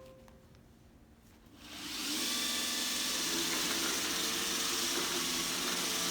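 iRobot Roomba i7 robot vacuum starting a cleaning run: after its start tune's last note fades, the suction motor and brushes spin up about a second and a half in and then run steadily with a whir.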